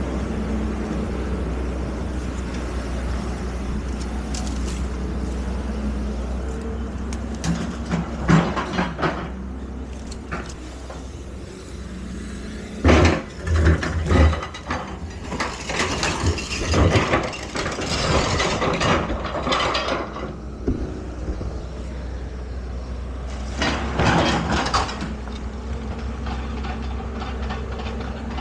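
Excavator engine running steadily, with bursts of metal clanking and clattering about a third of the way in, through the middle and again near the end.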